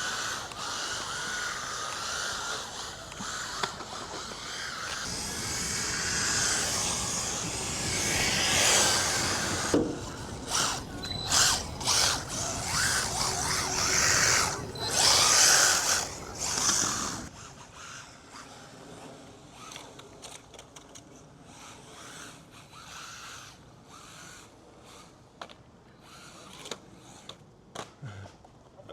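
Electric RC car motor whining under throttle, loud at first and then surging in short irregular bursts as the car is driven hard. After about seventeen seconds it drops away to faint scattered ticks and clatter.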